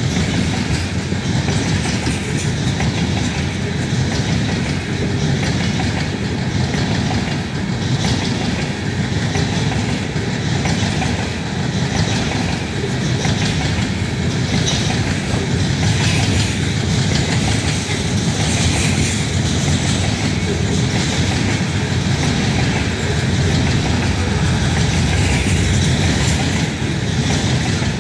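Freight train of covered hopper cars rolling past up close: a loud, steady run of steel wheels on rail with clickety-clack over the rail joints.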